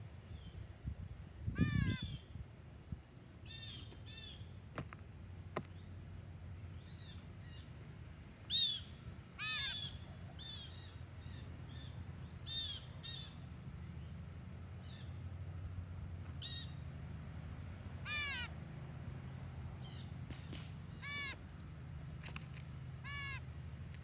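Birds calling: a dozen or so short, separate calls with an arching pitch, spaced irregularly, over a low steady rumble. A dull thump about two seconds in.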